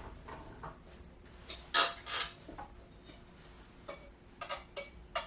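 Kitchen clinks as hot-sauce-coated chickpeas are scraped and tipped from a bowl into an air fryer basket: about nine sharp, irregularly spaced clicks and knocks of utensil and food against the dishes, with quiet between.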